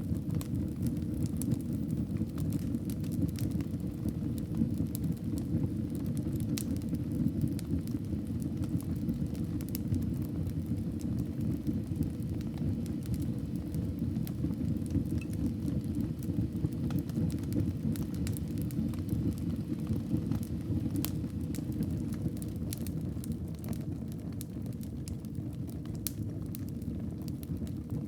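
Wood fire burning in a fireplace: a steady low rush with scattered sharp crackles and pops, which come more often near the end.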